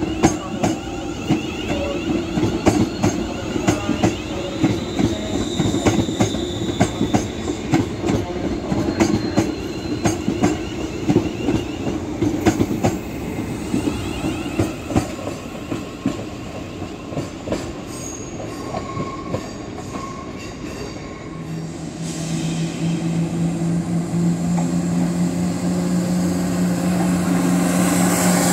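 ScotRail Class 380 electric multiple unit rolling slowly past at close range, its wheels clicking rapidly over rail joints and pointwork, with a faint high flange squeal. About two-thirds of the way through, the clicking fades and a steady low train hum takes over, growing louder toward the end.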